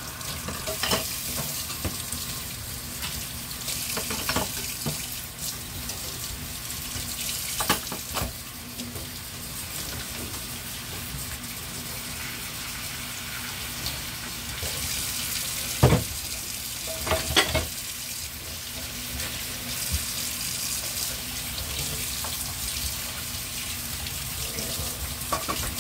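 Pieces of hen sizzling as they fry in a pan on a gas burner, a steady hiss, with a few sharp knocks of a spatula against the pan, the loudest about two-thirds of the way through.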